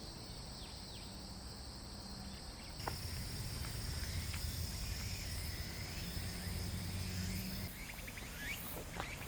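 Insects trilling in one steady, continuous high tone that drops a little in pitch about three seconds in, over a low steady hum, with a few faint clicks.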